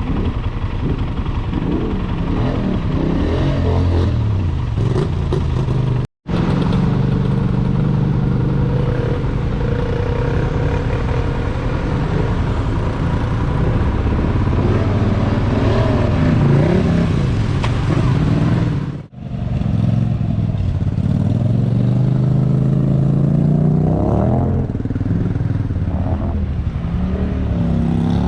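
Big mega truck engines running and revving, their pitch climbing and falling with the throttle. The sound cuts out abruptly for a moment about six seconds in, and dips again briefly a little past nineteen seconds.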